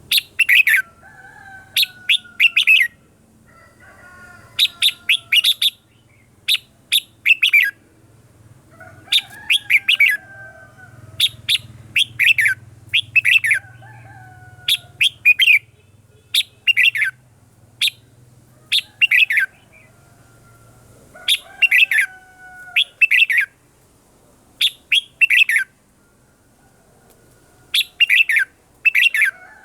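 Red-whiskered bulbul singing: quick bursts of short, sharp notes repeated every couple of seconds, with fainter sliding notes between the bursts.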